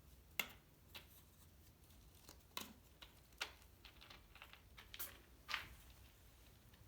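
Kittens moving about, making light scratches and clicks: about a dozen short, sharp scrapes scattered at uneven intervals against a quiet room.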